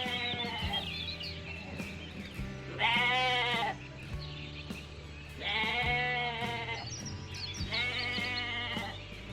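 A sheep or goat bleating four times, each call a long wavering bleat, over background music with steady bass notes.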